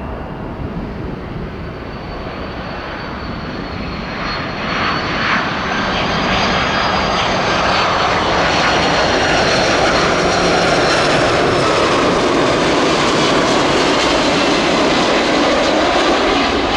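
Iberia Airbus twin-jet airliner on final approach, its turbofan engines giving a rushing roar that grows louder over the first several seconds as it comes in, then holds, with a thin high whine from the fans on top.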